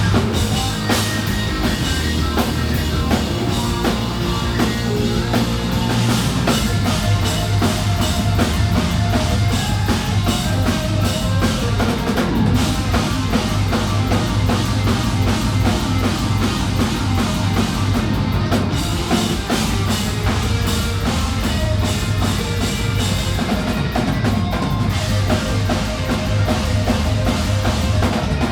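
Live hard rock band playing loudly, the drum kit driving a steady beat with bass drum and snare prominent in the mix.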